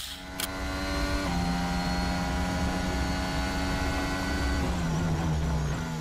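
Racing car engine running at a steady high note that drops a step in pitch about a second in and again near the end.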